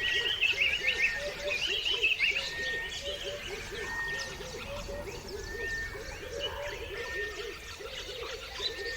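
A chorus of birds chirping and calling. Many quick high chirps and short whistled notes sit over a fast, steady run of lower repeated calls.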